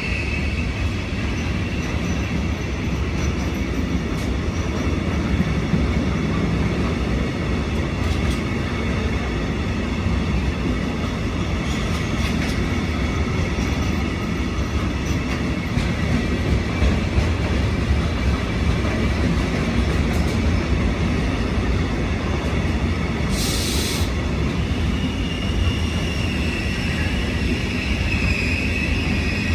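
A train rolling past on the rails with a steady, loud rumble of wheels, and high wheel squeal near the start and again near the end. A short hiss comes about three-quarters of the way through.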